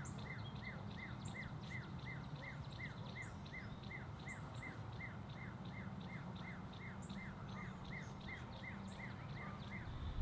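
Bird calling over and over, about three short falling chirps a second, with a few higher notes mixed in, over a faint low steady hum.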